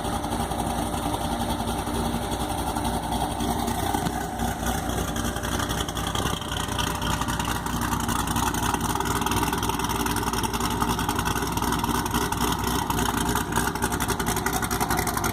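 Modified 2008 Corvette Z06's 7.0-litre LS7 V8, fitted with Kooks headers and a Corsa exhaust, idling steadily through the exhaust, growing a little louder about halfway through.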